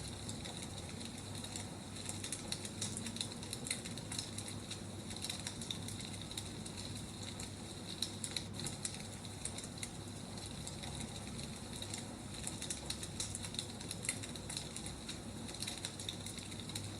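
Wood fire crackling: irregular small pops and snaps over a steady low hiss.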